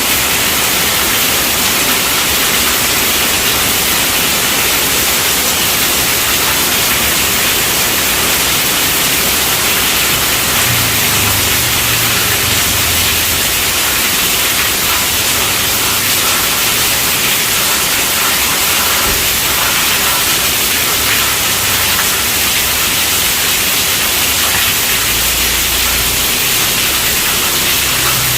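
Heavy rain drumming steadily on a tent roof, a dense unbroken hiss. Low rumbles of distant thunder swell briefly about eleven seconds in and again near the end.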